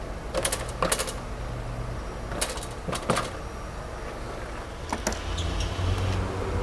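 Sharp plastic clicks and clatters, a few at a time, as the car's underbody splash shield, packed with loose road stones, is worked loose from below. A steady low workshop hum runs underneath.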